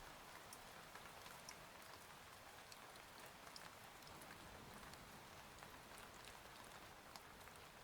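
Faint steady rain: an even hiss of falling rain with individual drops ticking sharply here and there.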